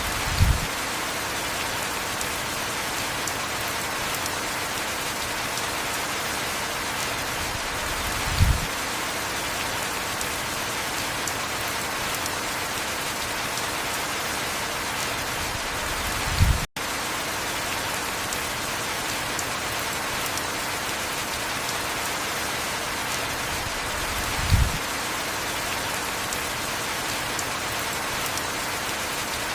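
Steady heavy rain falling. A short, low thump comes about every eight seconds, four times, and the sound cuts out for an instant near the middle.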